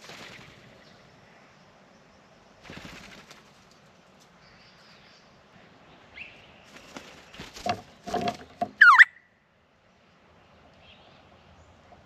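Friarbirds at a birdbath: short flurries of wing flapping, then a louder scuffle around seven to nine seconds in. It ends in one loud, sharp call that drops quickly in pitch.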